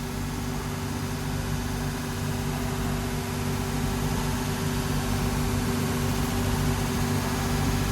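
A workshop machine's motor running steadily: an even hum with a hiss over it, growing slightly louder toward the end.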